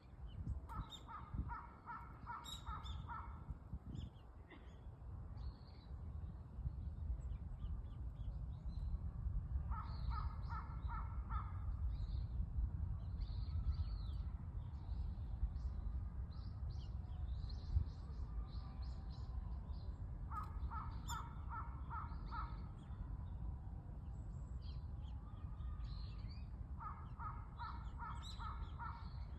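A crow cawing in four bouts of quick repeated caws, about three caws a second, with small birds chirping between them. A steady low rumble of wind runs underneath.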